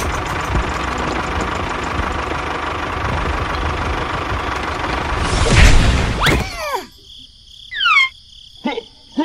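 Tractor engine running steadily, then about five and a half seconds in a loud crash with a steeply falling whistle as the toy tractor tips over, followed by two short descending whistles.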